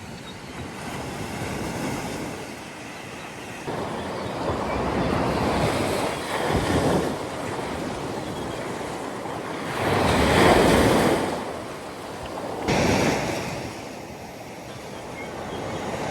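Sea waves washing and breaking on the shore in repeated surges, the loudest about ten seconds in, with wind buffeting the microphone.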